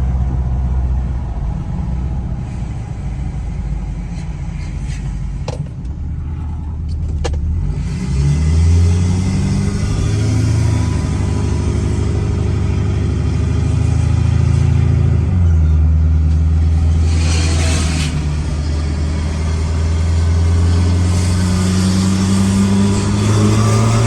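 Loud modified pickup truck engine idling, then pulling away about eight seconds in, its note climbing and stepping through gears, with a brief hissing rush a little past the middle and the revs rising again at the end.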